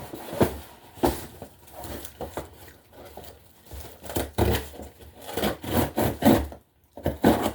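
A package being opened by hand: scraping, rubbing and crinkling of the packaging, with several sharp knocks and rips.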